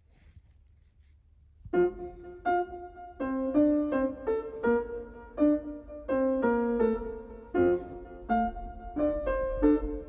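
Background piano music, a light melody with chords, that begins after a quiet first second and a half.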